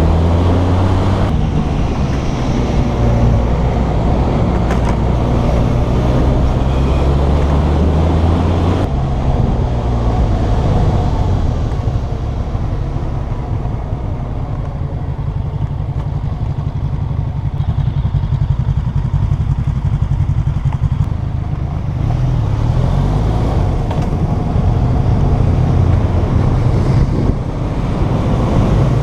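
Motorcycle engine running while riding, its pitch rising and falling with the throttle, with a steadier, lower drone through the middle and a sudden change about nine seconds in.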